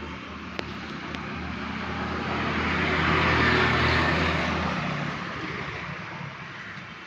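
A motor vehicle passing by, its engine and road noise swelling to a peak about three and a half seconds in, then fading away. Two faint clicks come in the first second or so.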